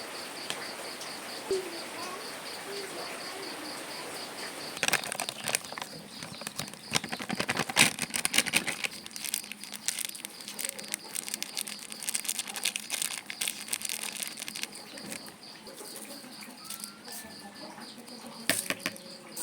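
A dense stretch of crackling, rustling handling noise, like something being crinkled or flapped, through the middle few seconds. Under it runs a steady, evenly pulsing high insect chirr.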